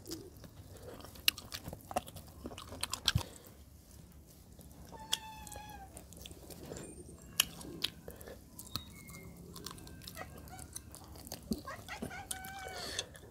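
Close-miked eating of chicken curry and rice by hand: chewing, biting meat off a chicken leg, and wet lip-smacking clicks. Two short high-pitched calls sound in the background, about five seconds in and near the end.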